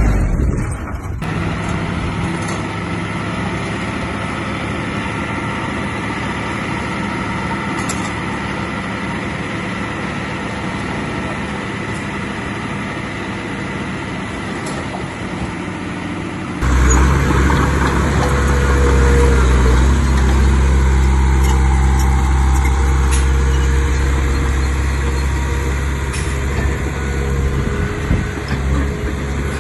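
Heavy diesel earthmoving machinery running steadily under work. The sound changes abruptly about a second in and again just past halfway, where a louder, deeper engine note takes over.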